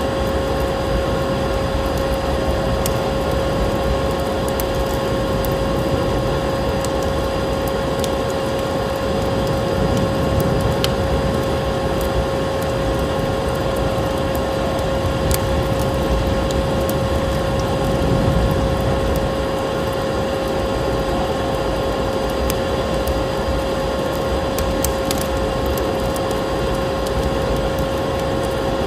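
Vacuum cleaner motor running steadily: a constant whine over a rushing noise, with no change in pitch. Scattered sharp crackles of burning fireplace wood sound over it.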